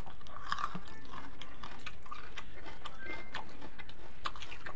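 Eating sounds close to the microphone: irregular wet smacking and clicking of chewing mouths as rice and curry are eaten by hand from metal plates.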